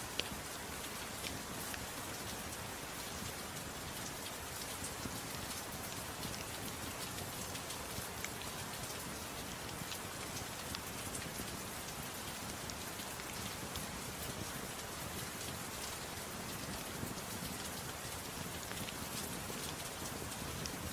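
Steady rain falling in an even hiss, with scattered small ticks and one sharper pop just after the start.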